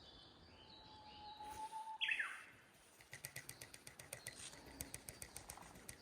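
A bird gives a short, quick downward-sweeping chirp about two seconds in. Then an even run of sharp ticks starts, about five or six a second, and keeps going.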